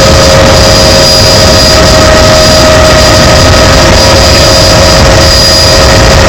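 Helicopter in flight, heard from inside the cabin: a loud, steady engine and rotor noise with a constant whine.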